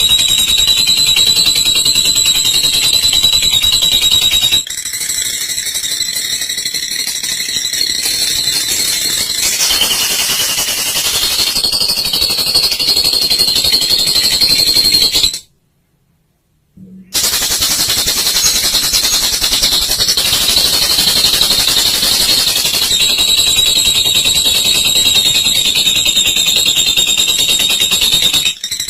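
Olive lovebird giving its long 'ngekek' call: a fast, high-pitched rattling chatter held for many seconds. It breaks off for about two seconds a little past the middle, then resumes.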